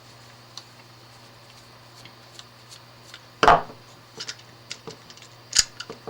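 Small tools and plug parts handled on a work surface: scattered light clicks, a louder clunk about three and a half seconds in, and a sharp click near the end, over a steady low hum.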